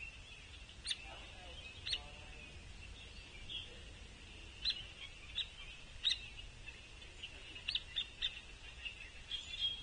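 Hairy woodpeckers giving short, sharp calls, about eight at irregular intervals, over a steady faint high background.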